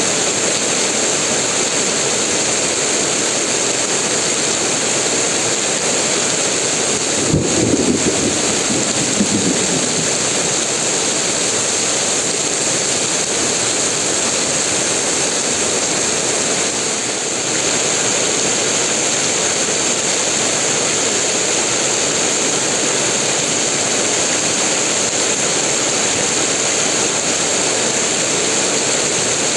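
Heavy rain pouring down in a dense, steady hiss. About a quarter of the way in there is a brief knock, then a short low rumble.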